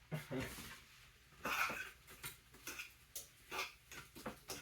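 Irregular light clicks and taps of kitchen utensils and containers being handled, with a brief low murmur about a second and a half in.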